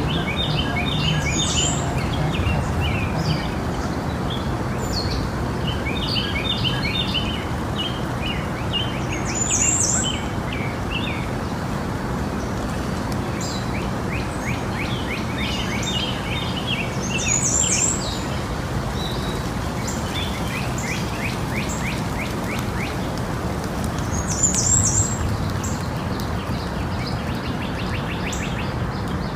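Small birds chirping in quick runs of short high notes. A higher, louder call comes back about every seven seconds, over a steady background noise.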